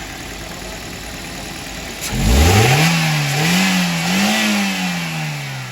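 Toyota Corolla XLi petrol engine running, then revved about two seconds in: the pitch climbs sharply, rises and dips twice, then falls away as the revs drop. The engine's tappets have just been adjusted to cure its noise.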